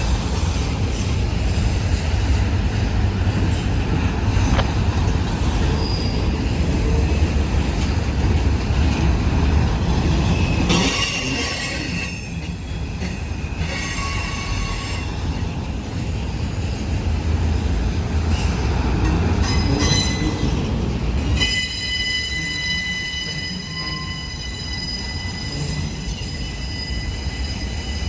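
Union Pacific freight train rolling past with a heavy, low rumble of wheels on rail. From about three-quarters of the way through, steady high-pitched wheel squeal rings over the rumble.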